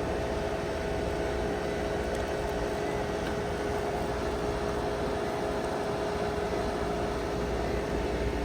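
Outdoor air-conditioning condensing unit running, its compressor and condenser fan making a steady hum with two steady tones over an even rush of air.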